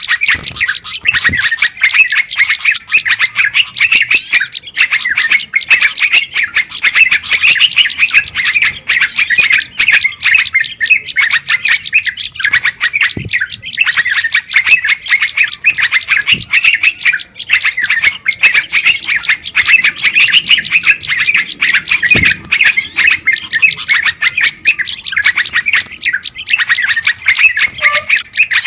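Dense, unbroken chatter of many small songbirds calling rapidly at once: a 'ribut' (commotion) bird-lure recording of an agitated flock, played to draw in wild bulbuls, tailorbirds and similar birds.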